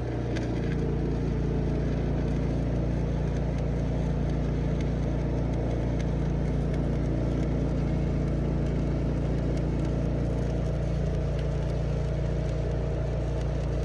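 Engine of a welding rig running at a steady speed, with a faint even hiss over it.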